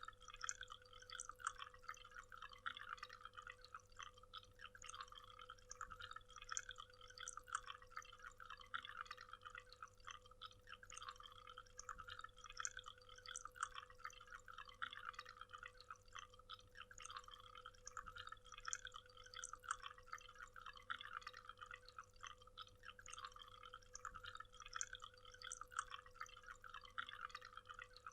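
Waterfall: faint, continuous splashing and trickling of falling water, made of many small drips and splashes, with a faint steady hum beneath.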